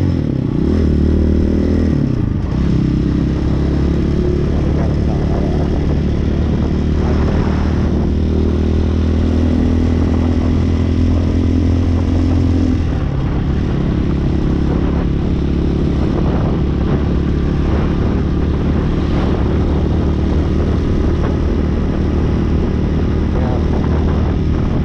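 Hawk 250 motorcycle engine running while the bike is ridden. The engine note holds steady for a while, then drops in pitch about halfway through.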